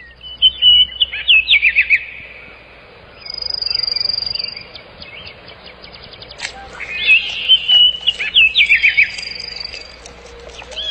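A songbird singing: a quick phrase of loud, sliding whistled notes, repeated about six seconds later, with a thin, high, steady whistle held for a second or so in between.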